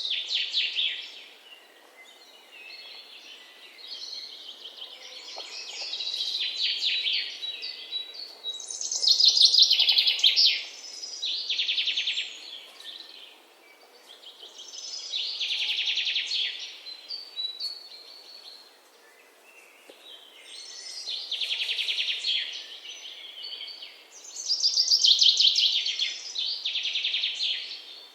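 Birds singing in high, rapid trilled phrases of a second or two each, coming again every few seconds over a faint steady hiss.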